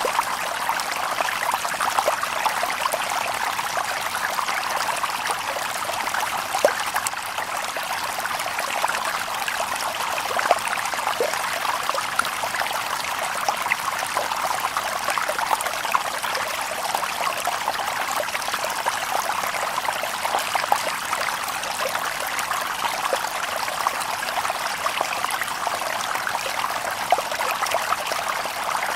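Shallow stream babbling over stones: a steady, dense gurgle of small splashes with no birds.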